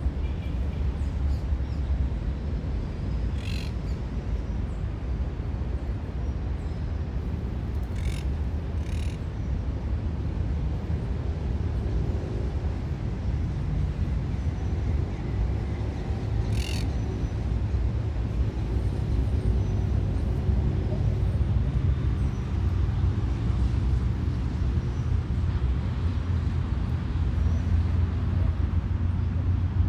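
City park ambience: a steady low rumble of distant road traffic, with a few short bird calls over it, four in all.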